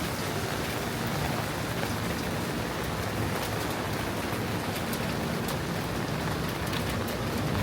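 Steady rain falling in a heavy shower, with scattered sharp drop ticks from a few seconds in.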